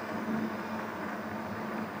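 Riding noise of a fat-tire electric bike picked up by its handlebar-mounted camera: a steady rush with a low, even hum underneath.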